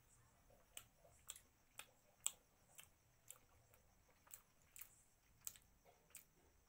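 A person chewing mouthfuls of mutton curry eaten by hand: quiet, sharp mouth clicks about twice a second.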